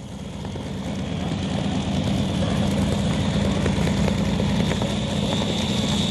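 Light modified pulling tractor's engine running hard under load, growing louder over the first two seconds and then holding steady, with a high whine above the engine noise.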